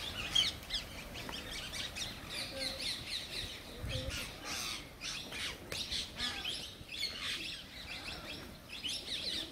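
Birds chirping, with many short overlapping chirps and calls.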